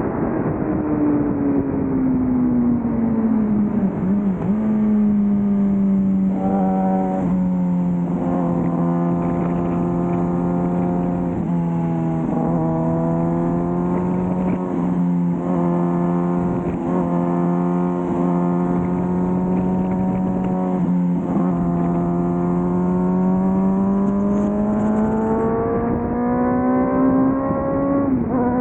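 Suzuki GSX-R600's inline-four engine and exhaust at highway speed. The revs fall off over the first few seconds, then hold steady at cruise with a few brief throttle dips. They climb again toward the end before dropping suddenly.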